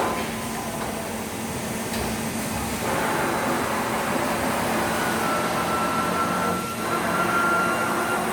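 Machine tool running with a steady whirring noise; a thin high whine comes in about five seconds in and holds.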